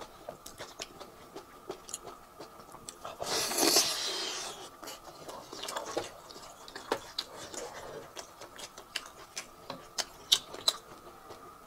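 Close-miked chewing and wet mouth clicks of someone eating braised beef off the bone. A louder noisy burst about a second long comes about three seconds in.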